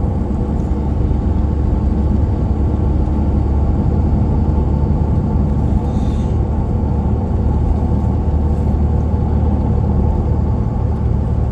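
Steady low rumble of a moving vehicle's engine and tyres on the road, heard while driving.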